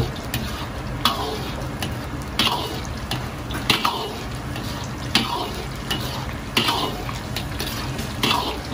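Sliced garlic frying in a deep pool of oil in a wok, a steady sizzle over the low rumble of the gas burner. A ladle sweeps through the oil and scrapes the wok about every second and a half, each stroke a sharp scrape that sinks in pitch as it fades.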